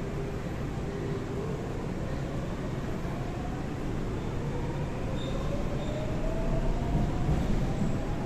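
Seoul Line 4 4000-series train with a Daewoo–Alstom GTO VVVF inverter, accelerating: the inverter and traction-motor whine steps up about a second in, then rises steadily in pitch over the rumble of the wheels and running gear, heard from inside the car and growing louder toward the end.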